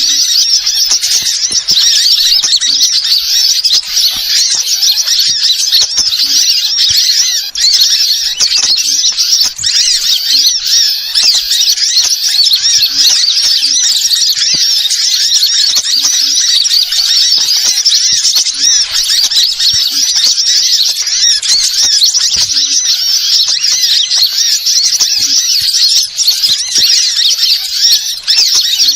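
Dense, unbroken high-pitched chirping and squeaking of small songbirds, a recorded lure call (suara pikat) of the kind played to draw wild birds in for trapping.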